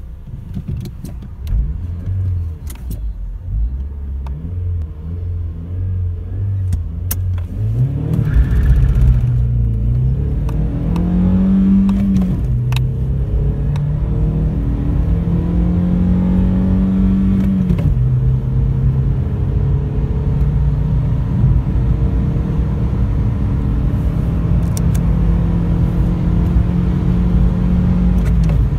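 1997 Volkswagen Polo 6N 1.4 MPI four-cylinder engine, heard from inside the cabin, accelerating hard from a standstill with a low rumble underneath. The engine note climbs slowly, drops at each upshift (twice in the middle and once at the very end), then climbs again.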